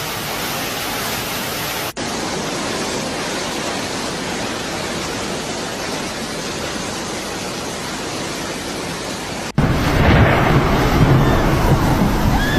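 Heavy downpour: a steady, loud hiss of rain. About nine and a half seconds in it cuts to a louder stretch with a deep rumble under the hiss.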